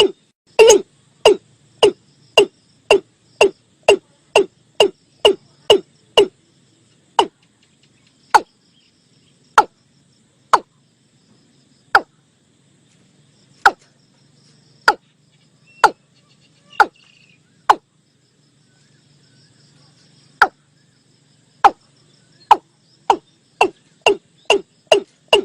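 Watercock calling in a series of short hollow notes, each dropping in pitch. The notes come about two a second at first, slow to one every second or so in the middle, then quicken again near the end. It is a lure recording of the call, used to draw in watercocks.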